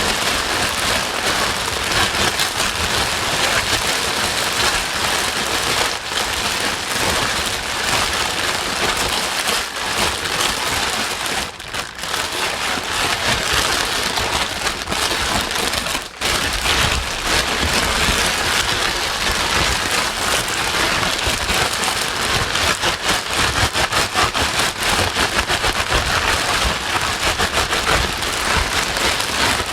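Steady, loud white noise that sounds like heavy rain, a dense hiss with a fast patter in it. It dips briefly twice, about twelve and sixteen seconds in.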